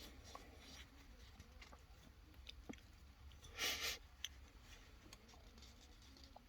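Faint clicks and taps of small parts being handled, with one short hiss from an aerosol spray can about three and a half seconds in.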